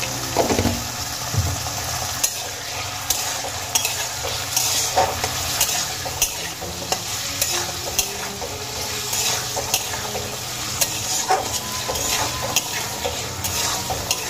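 Diced potatoes sizzling in hot oil in a kadai while a spatula stirs them, scraping and knocking against the pan every second or so.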